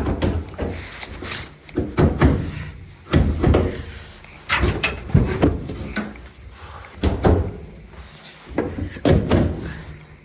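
Dryer front bulkhead panel and cabinet parts being handled and fitted back into place: a run of irregular knocks and clunks, several of them loud.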